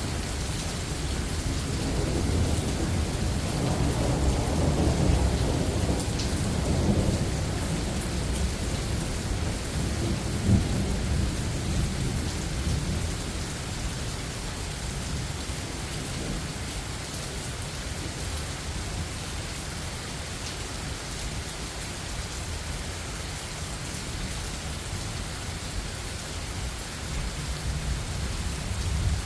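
Steady rain falling, with a long roll of thunder rumbling in the first third and a brief sharper peak about ten seconds in, then the rain carries on alone.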